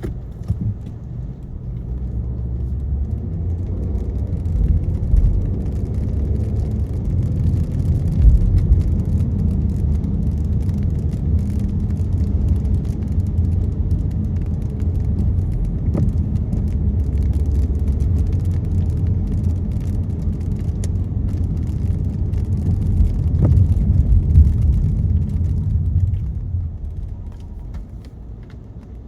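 Car road and engine rumble heard from inside the moving car, a low steady rumble that swells over the first few seconds and dies away near the end.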